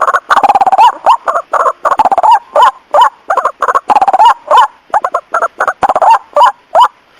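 White-breasted waterhen (ruak-ruak) lure call: a loud, fast run of short rising-and-falling call notes, several a second. It is the night call that bird trappers play to draw waterhens in.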